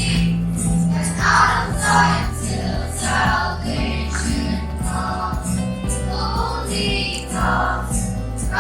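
Group of children singing a Christian worship song with musical accompaniment.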